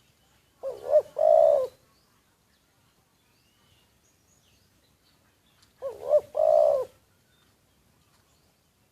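Spotted dove cooing twice, about five seconds apart. Each phrase is two short coos followed by a longer drawn-out coo.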